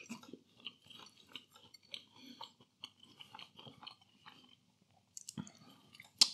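A person chewing a flaky pastry cheese and onion bake, with soft irregular crunching and mouth noises. A single sharp click comes near the end.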